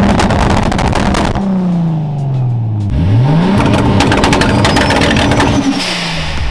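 High-powered car engine accelerating hard. The revs climb and hold, drop away about a second and a half in, then climb again and hold before dropping off near the end.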